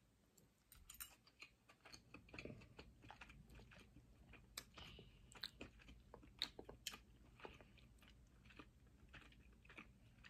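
Faint close-up chewing of lobster meat, with many small soft clicks and smacks of mouths eating.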